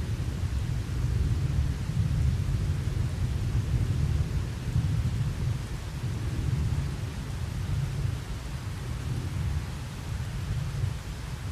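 Rolling thunder rumbling low over steady rain, dying away toward the end.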